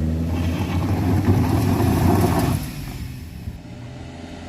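A motor vehicle engine revving hard, loud at first. It drops off sharply about two and a half seconds in, leaving a quieter engine hum.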